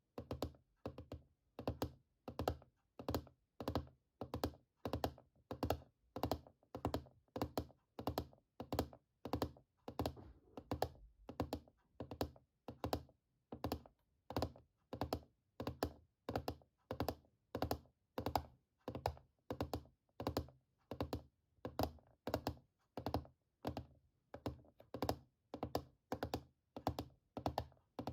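Fingers tapping on keys in quick runs of several taps, each run repeating about one and a half times a second, with a dull thud under each tap.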